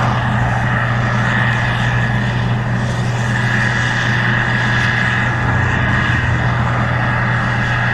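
Case IH 2144 Axial-Flow combine running steadily while harvesting corn: a constant diesel drone with a steady high whine above it.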